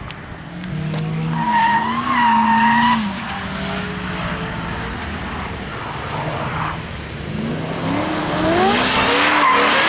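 Ford Shelby GT500's supercharged V8 revving up and down while the car drifts on a wet track, with a tyre squeal about a second and a half in. Near the end the revs climb again into a loud run.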